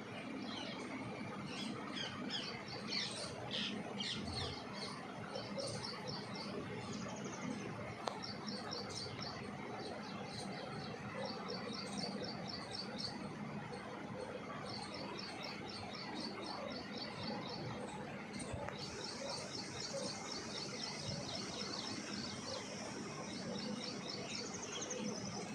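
Small birds chirping in short, rapid runs of high notes, repeated every second or two over a steady background hiss.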